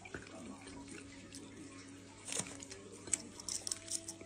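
Close-up chewing of braised pork belly and rice, with wet mouth sounds and sharp smacking clicks that come thickest in the last second or so.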